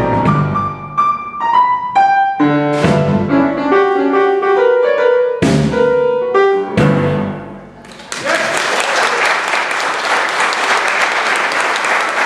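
Boogie-woogie piano playing its closing phrases and final chords, which die away about two thirds of the way through. Audience applause then breaks out and carries on.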